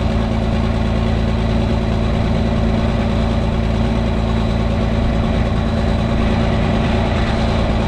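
Diesel engine idling steadily, running on its own after a cold start.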